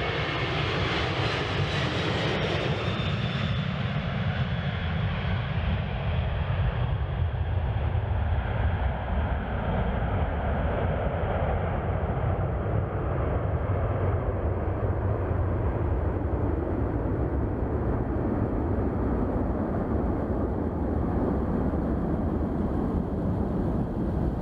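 Boeing 767 freighter's twin jet engines at takeoff power as it climbs away: a high whine fades out over the first few seconds, leaving a steady low rumble.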